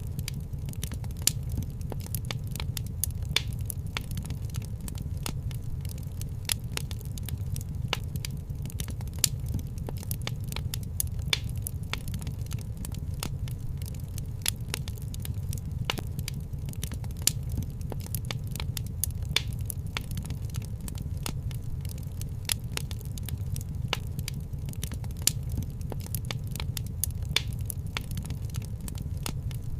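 Fireplace wood fire crackling: irregular sharp pops and snaps over a steady low rumble of the flames.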